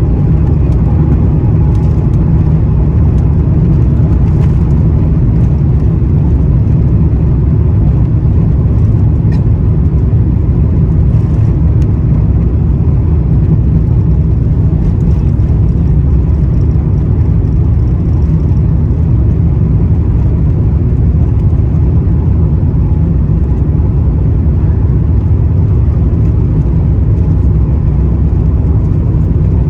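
Airbus A350-900 cabin during takeoff: a loud, steady low rumble from its Rolls-Royce Trent XWB engines mixed with rushing air, holding level with no change in pitch.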